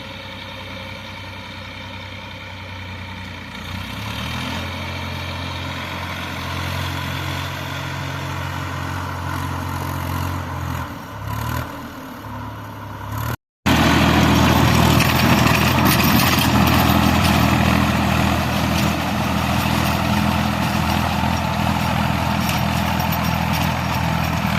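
Tractor engine running steadily, its note wavering briefly; about halfway the sound cuts out for a moment and comes back louder.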